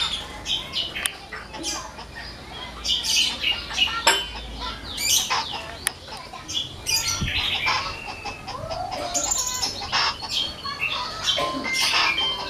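Small birds chirping and twittering on and off, with a few sharp clicks among the calls.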